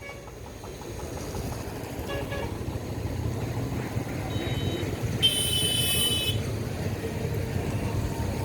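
Steady traffic rumble with a high-pitched vehicle horn sounding for about a second past the middle, after a fainter short toot.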